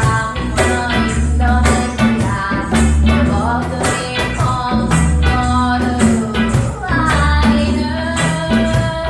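Live band playing a reggae song: a singer's melody over a steady drum beat and a repeating bass line.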